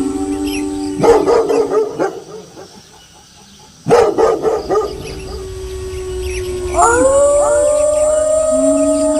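Wolves howling, several long held howls overlapping. Two sudden bursts of dog barking break in about one and four seconds in, and near the end several howls rise and hold together in chorus.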